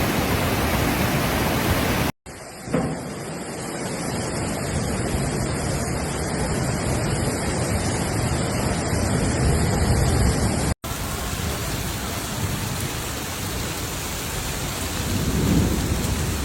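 Heavy rain during a storm: a steady, dense hiss of rain and water, breaking off abruptly twice and resuming each time with a slightly different sound.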